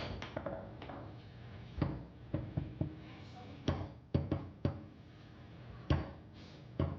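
Fast foosball play on a Tornado table: the ball and rods knocking off the players' men and the table walls in about a dozen sharp, irregular clacks, bunched most closely near the middle.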